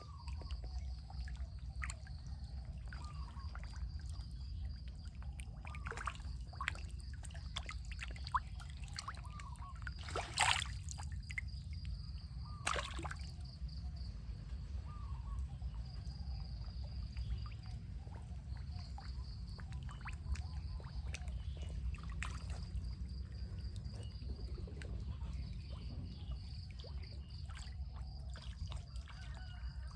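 Water sloshing, trickling and splashing, with scattered small splashes and two sharper ones about ten and twelve seconds in, over a steady low rumble. A faint, pulsing high tone runs underneath.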